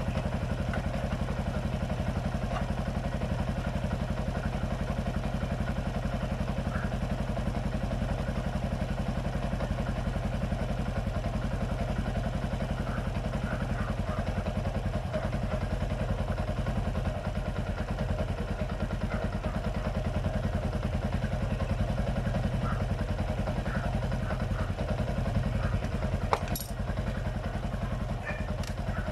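Yamaha Sniper 135's single-cylinder four-stroke engine idling steadily while its fuel mixture is being set, with a couple of sharp clicks near the end.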